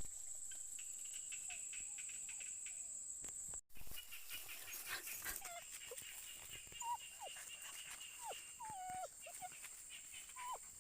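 Dogs, likely puppies, whimpering in short high whines that fall in pitch, coming often in the second half. A steady high-pitched whine runs underneath.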